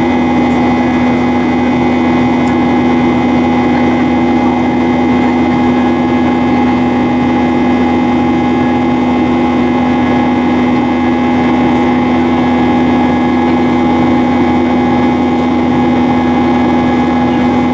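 Boeing 737-800's CFM56 turbofan engines running steadily in flight, heard inside the cabin as a constant drone with several steady tones.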